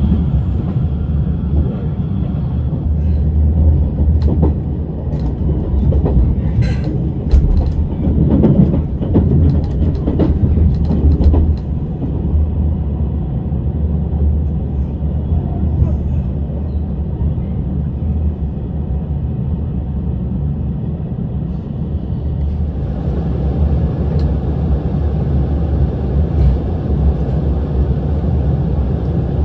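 Cabin noise of a JR Shikoku 8000 series limited express train under way: a steady low rumble of wheels on track. Scattered sharp clicks come in the first half, and a brighter hiss comes in from about 23 seconds in.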